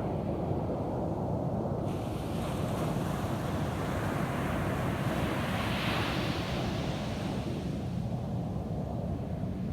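Ocean surf on a beach: a wave breaks and washes up the sand, its hiss swelling to a peak about six seconds in and then fading, over a steady low rumble of the sea.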